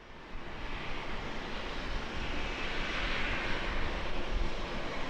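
Boeing 737-800 jet engines passing by: a rushing jet noise that swells to its loudest about three seconds in, then eases off slightly.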